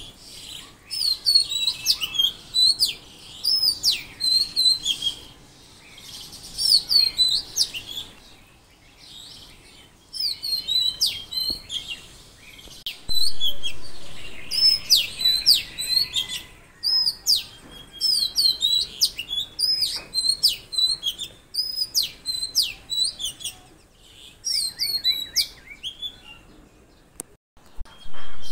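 Songbirds chirping: quick series of sharp, high chirps and whistled notes in repeated bursts, with several birds overlapping.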